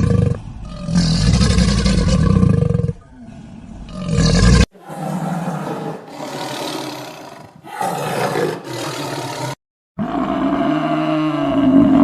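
Large wild animals roaring in short clips cut together: a loud, deep roar first, then after an abrupt cut quieter, rougher calls, and after a brief silence a deep call that rises and falls in repeated swells.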